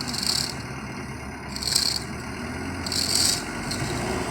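A diesel truck engine idling steadily, under a short high rasp that repeats about every second and a half.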